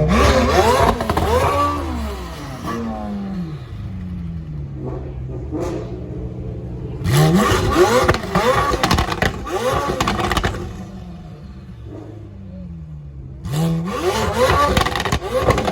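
A car engine revved hard in three bursts, each climbing quickly in pitch and falling back toward idle between them.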